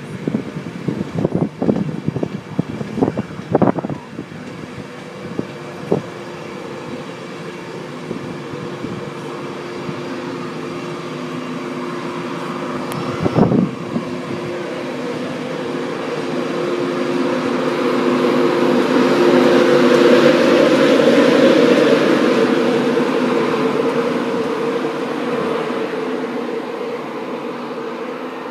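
InterCity 125 (HST) train passing: wheels clacking over rail joints, then the diesel power car's engine running with a steady hum that grows louder, peaks about two-thirds of the way through and fades.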